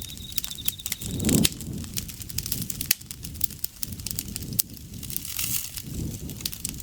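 Campfire crackling and popping in quick irregular snaps over a low rumble of burning wood, with one louder burst about a second and a half in. An insect trills in fast pulses until about a second in.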